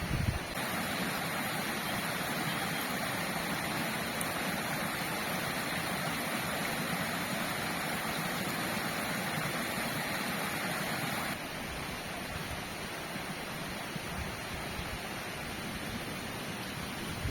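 River water flowing, a steady rushing sound that drops slightly in level about eleven seconds in.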